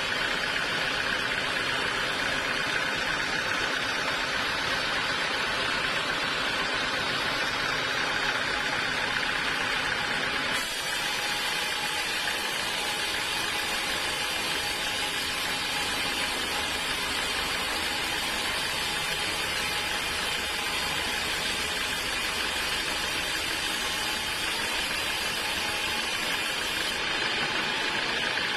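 Sawmill machinery running steadily, a dense even mechanical noise. Its tone shifts abruptly about ten seconds in and again near the end.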